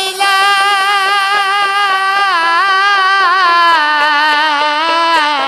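Bengali Baul folk song: a singer draws out one long, wavering ornamented note over a quick, steady drum beat of about five strokes a second.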